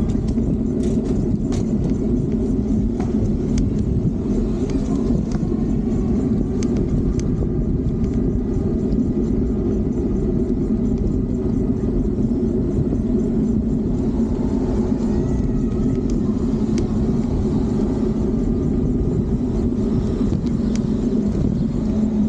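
Steady low wind rumble and road noise on the microphone of a moving Fiido D3 Pro electric bike, with a few faint ticks.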